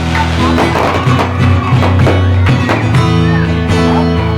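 Acoustic guitar strumming chords in a steady rhythm: an instrumental passage of a worship song.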